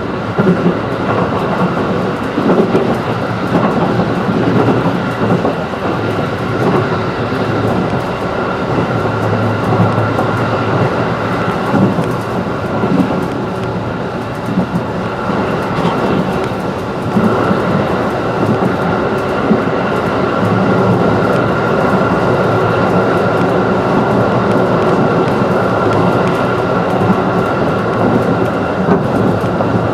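211 series electric train running at speed, heard from inside the carriage: a steady rumble of wheels on rail with frequent short clicks over the track.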